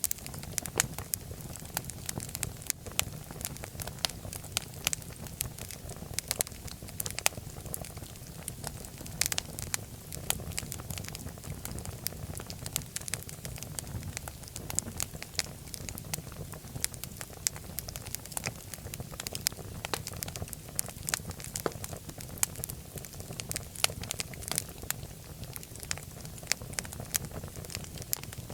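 Wood fire crackling in a fireplace: irregular sharp pops and snaps over a low steady rush of flame.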